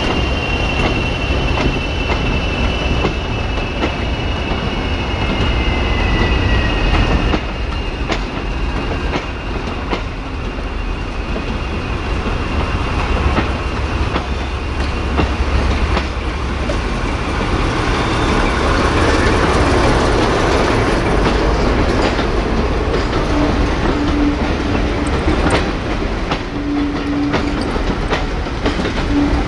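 Train on jointed track: steel wheels squealing with a high, slowly falling whine for the first several seconds, then the low running of a Class 14 diesel-hydraulic locomotive as a rake of wooden goods vans rolls past, the wheels clicking over the rail joints.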